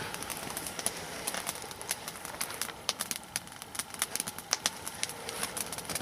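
Burning nodya log fire crackling, with irregular small pops and snaps from the glowing coals.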